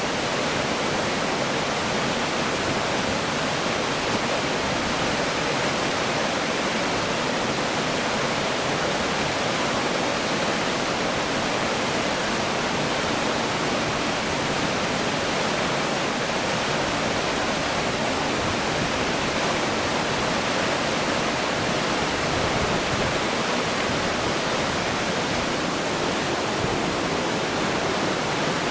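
Rushing water, a steady even roar with no pauses or changes.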